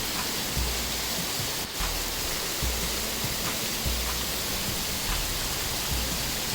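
Heavy rain pouring down as a steady, dense hiss. A low thud repeats about once a second underneath it.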